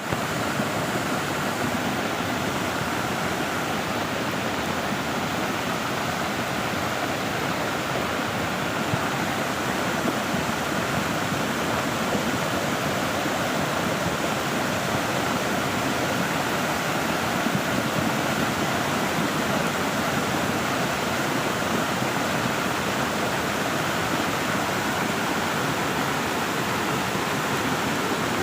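Heavy rain pouring steadily, a dense, even hiss that holds without a break.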